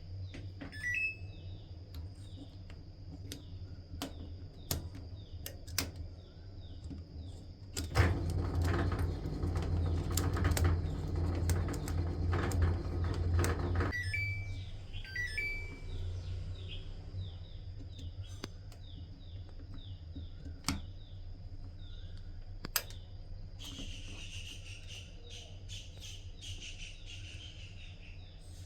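Samsung front-load washing machine's door lock mechanism working: scattered sharp clicks, and a louder whirring with rapid clicking for about six seconds from about eight seconds in, over a steady low hum. Short high chirps come near the start and again around fifteen seconds, and a hiss near the end.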